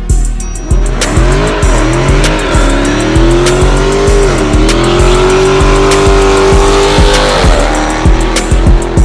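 A car engine revving in a few rising and falling sweeps, then held high and steady for about three seconds before dropping away, over a music track with a steady beat.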